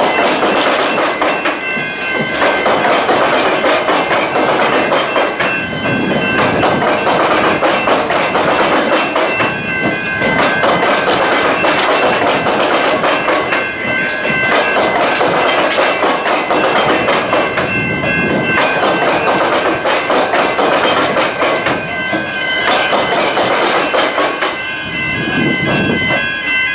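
Electric suburban train passing over the tram square level crossing, its wheels clattering over the rail joints and the crossing with the tram tracks. Steady high warning tones from the level-crossing bells ring in short pulses, clearest near the end.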